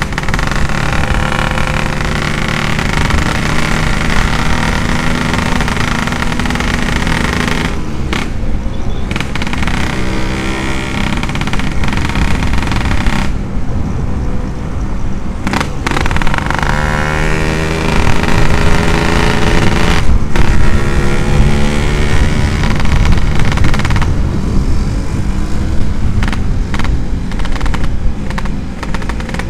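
Yamaha RX-King's two-stroke single-cylinder engine through a 'setengah dewa' aftermarket exhaust, ridden with repeated rises in revs and the throttle shut off briefly a few times.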